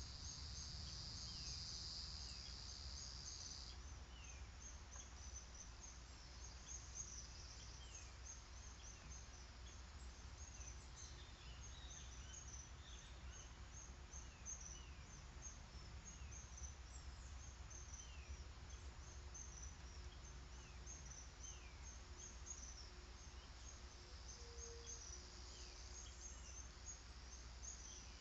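Faint outdoor chorus of birds: many short, high chirps and repeated short falling call notes. A steady insect buzz runs for the first few seconds and returns near the end, over a low steady rumble.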